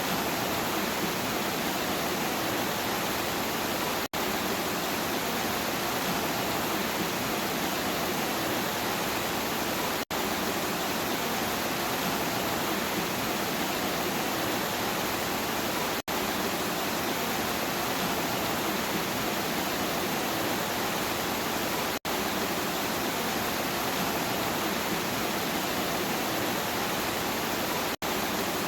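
Steady, even rain hiss, broken by a very short dropout about every six seconds.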